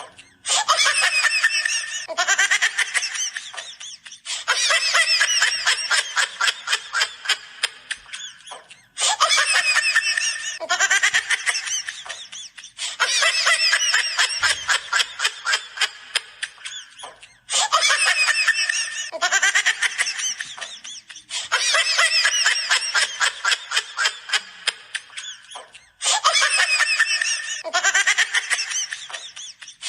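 Funny laughing sound effect: high-pitched, rapid ha-ha-ha laughter in bursts of one to four seconds, coming again and again with short gaps between them.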